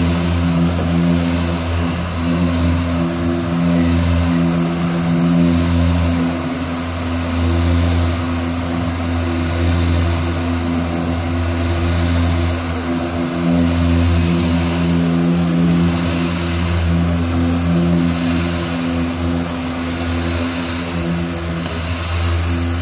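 Machine sander working body filler on a car panel, its motor running steadily, with a scratchy hiss that swells and fades every second or two as it is moved across the surface.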